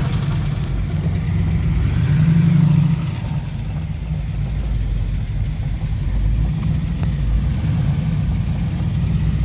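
Arriving classic car engine running at low speed with a deep rumble, swelling louder for about a second around two seconds in.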